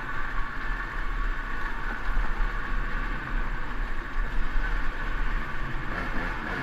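A KTM EXC 200 two-stroke dirt bike engine running steadily on the trail, with a strong low rumble underneath and no revving.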